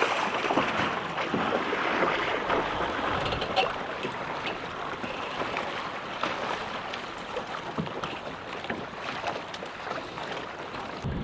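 Water splashing and rushing against a small boat on open water, with wind noise on the microphone.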